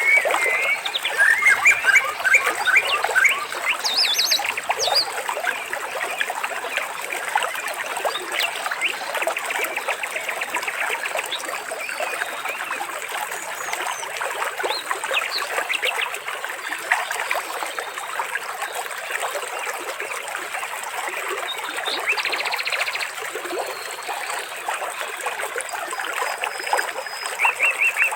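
Water trickling steadily, with birds chirping and giving short trills over it, busiest near the start and again toward the end.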